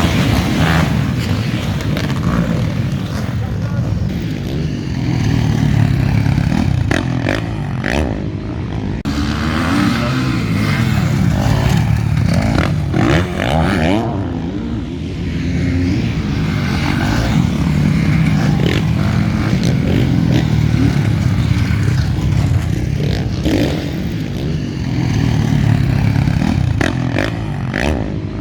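Motocross motorcycles racing, their engines revving up and down continuously.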